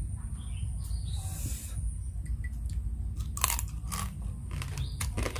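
Close-up chewing and crunching of crab pieces from a Khmer crab salad, with a few sharp crunches in the second half.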